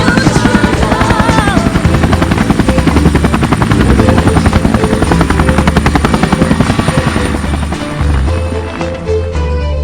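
Helicopter running, its rotor beating in a fast steady chop, with background music coming in under it and taking over as the helicopter sound fades near the end.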